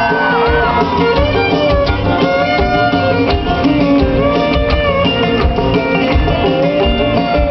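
Live country band playing an instrumental passage: fiddle and guitar over a steady drum beat, with no vocals.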